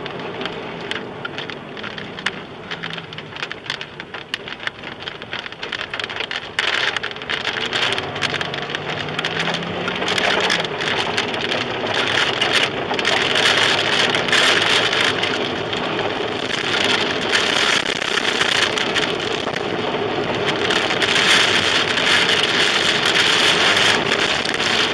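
Heavy rain pelting a car's roof and windshield, with many sharp hits on the body and glass. It gets louder about halfway through.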